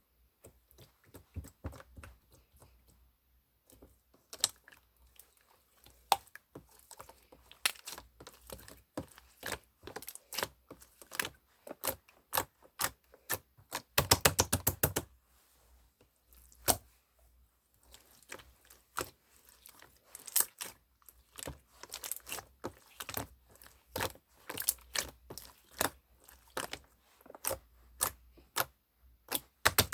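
Slime being squished and pressed by hand, making irregular sharp clicking pops as air pockets burst, with a dense run of rapid pops about fourteen seconds in.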